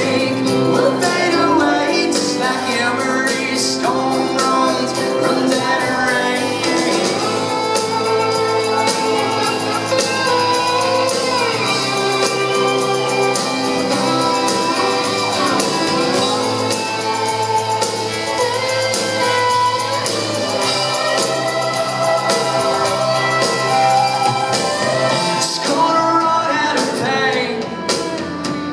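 Live country band playing with singing, loud and continuous.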